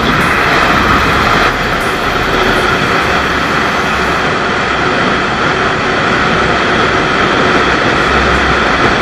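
Motorcycle ride noise: a steady, loud rush of wind and engine heard from the moving bike.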